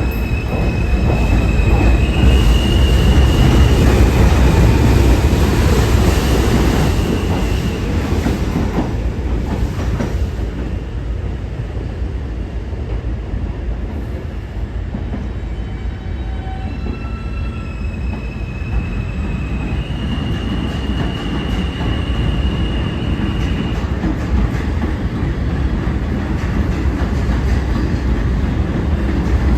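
R160 subway train running along the tracks: a steady rumble and rail clatter, loudest in the first few seconds, with long high-pitched steel wheel squeals near the start and again about two-thirds of the way through.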